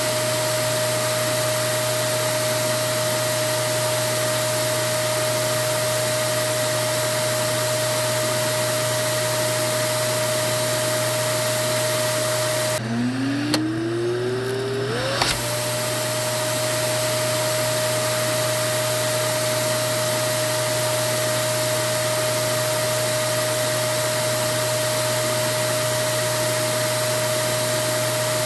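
Vacuum cleaner motor running with a steady whine over a rushing of air. About thirteen seconds in the whine breaks off, and over the next two seconds a rising whine climbs back to the same pitch, like the motor spinning up again, with a couple of small clicks. After that it runs steadily again.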